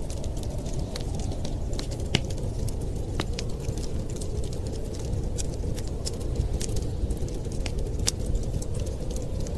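Fireplace crackling: irregular sharp pops and snaps from burning wood over a steady low rushing sound.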